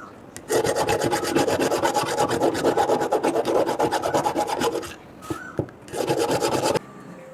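Fast, rhythmic back-and-forth scraping of a hand tool on the hammer's metal. It comes in one long run of about four seconds, then a shorter run that stops abruptly near the end.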